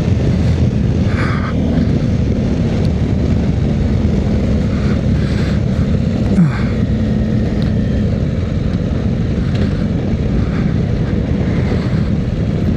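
Motorcycle engine running steadily on the move, heard through heavy wind rush on a bike-mounted microphone, with a brief bump about six seconds in.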